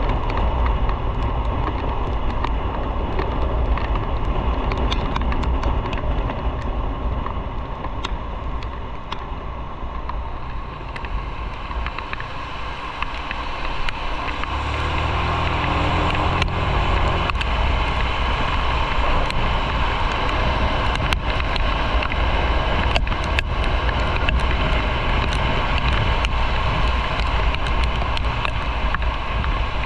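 Motorcycle engine running under a steady wind rush on the microphone while riding, the engine note climbing in steps about halfway through.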